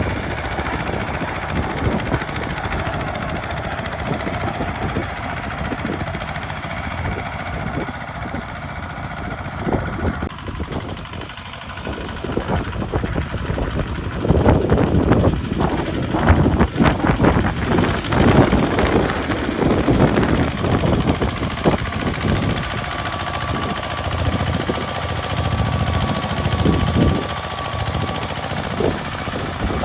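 Kubota RT single-cylinder diesel engine of a homemade tractor running with a rapid knocking beat, louder for a few seconds about halfway through.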